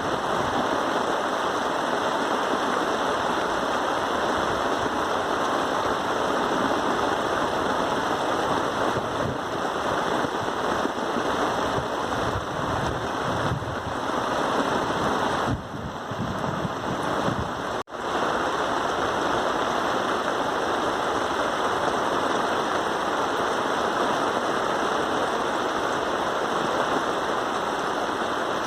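Steady rain, a dense even hiss, with a brief softening about two-thirds of the way through and a split-second dropout soon after.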